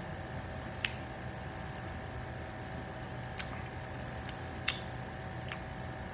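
Quiet closed-mouth chewing of pizza: four faint sharp mouth clicks over a steady background hum.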